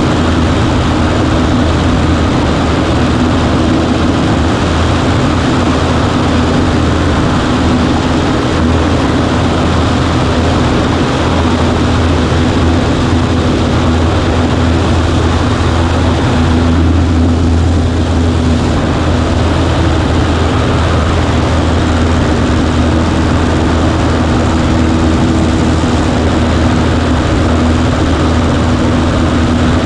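Cessna 140A's propeller engine running steadily with a loud, even drone.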